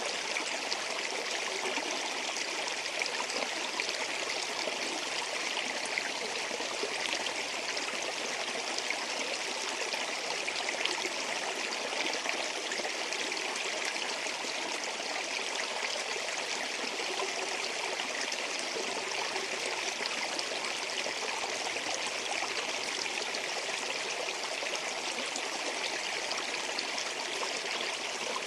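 Mountain waterfall: a steady, even rush of falling and splashing water.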